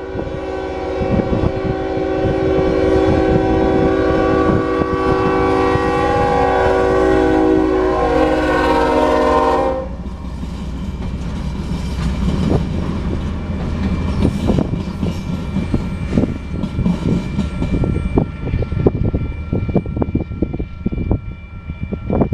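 A Union Pacific GE AC45CCTE locomotive's air horn sounds one long chord for the grade crossing, cutting off abruptly about ten seconds in. The passing train then rumbles by with its wheels clicking over the rail joints and crossing, while the crossing bell rings throughout.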